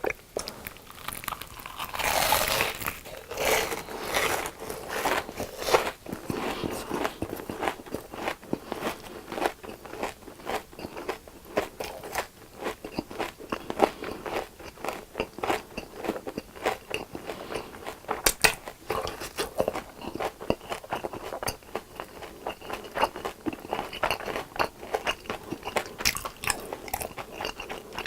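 Close-miked crunching and chewing of crisp deep-fried food, a dense run of crackly crunches, loudest with the bites in the first few seconds.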